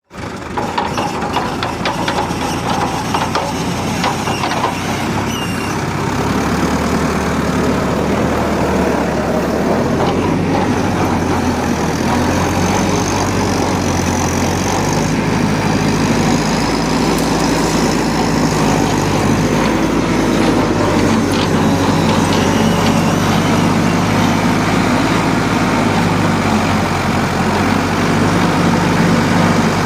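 Engine of a tractor-mounted pile drill running steadily and loudly, its pitch stepping up or down a few times as the load changes.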